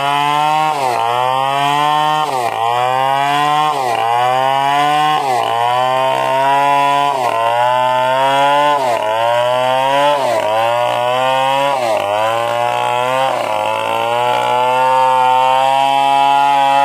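Stihl 070 two-stroke chainsaw cutting coconut wood at high revs. The engine speed drops sharply and climbs back again about every second and a half as the chain bites into the cut and is eased off.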